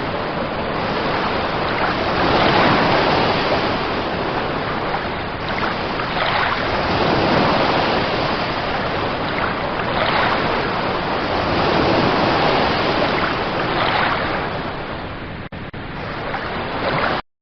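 Heavy rain falling in a steady hiss that swells and eases every few seconds, then cuts off suddenly near the end.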